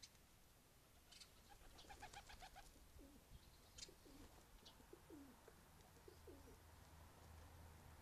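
Faint bird calls from garden birds: a quick run of about eight short notes, then a series of soft, low notes that each fall in pitch, with a few light clicks among them.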